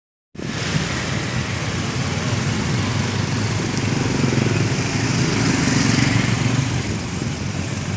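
Strong wind with heavy rain: a steady, dense rushing noise with a low, fluttering rumble from gusts buffeting the microphone.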